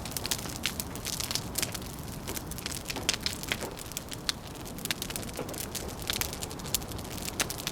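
Wood fire crackling with frequent sharp, irregular pops over a steady low rush of wind.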